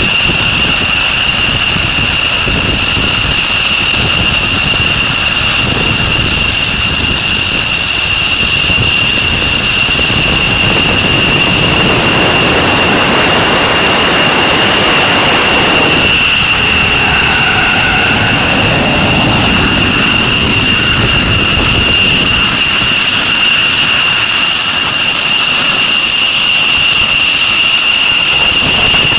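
Jet aircraft engines running with a steady high-pitched turbine whine over a constant rush, the rush swelling for a few seconds around the middle.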